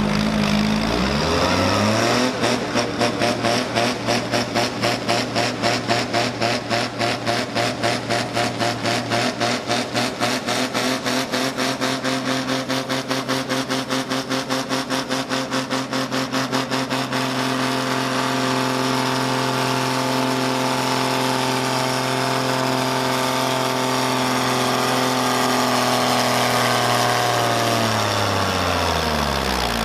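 A pulling vehicle's engine climbs to high revs and holds there under load through a pull. For the first half the sound pulses rapidly, then it runs steady, and near the end the revs fall away as the engine winds down.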